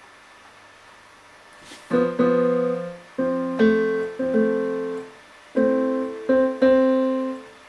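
Roland Integra-7 sound module's default piano sound, played as chords from a MIDI keyboard through a studio monitor. The chords start about two seconds in, each struck and left to ring and fade before the next.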